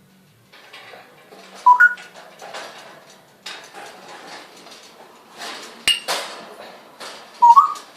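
African grey parrot giving a short rising whistle, about two seconds in and again near the end, over scattered clinks and rustling, with one sharp click about six seconds in.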